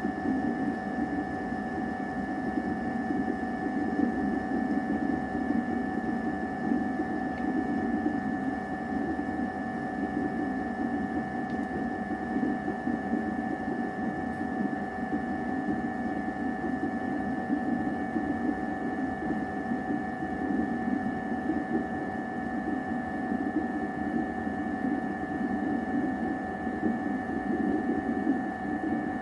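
A steady mechanical hum with a few constant high tones over a low rumbling band, unchanging.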